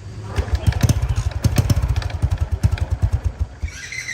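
Small motorbike engine running and being revved, with a fast, uneven run of loud beats that eases back near the end.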